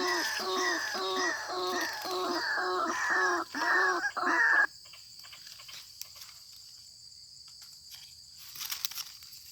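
White-breasted waterhen calling: a rapid run of repeated croaking notes, about three a second, that stops abruptly about four and a half seconds in. After that a steady high insect trill and a few faint clicks remain.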